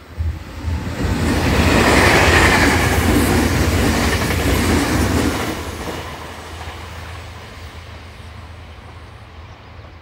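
Electric commuter train passing close by on ballasted track: the rumble and clatter of its wheels on the rails swell quickly, then fade steadily over the last few seconds as it moves away.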